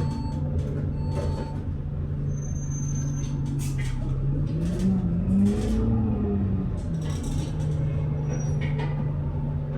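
Double-decker bus engine heard from inside the bus, running with a steady drone. About halfway through its pitch rises and falls back, with light rattles throughout.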